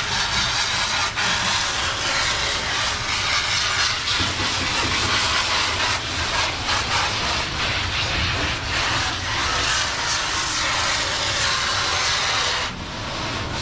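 Steady, loud hiss of water spraying from a dog-wash tub sprayer hose, cutting off suddenly near the end.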